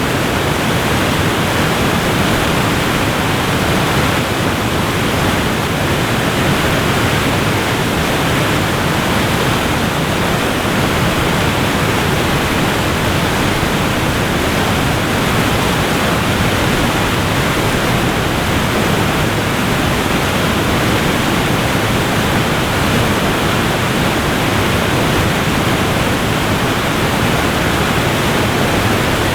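Waterfall rushing in a steady, unbroken wash of water noise.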